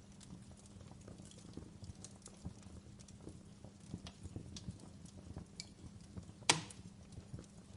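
Wood fire crackling: scattered small pops and snaps, with one sharp, much louder pop about six and a half seconds in, over a steady low background noise.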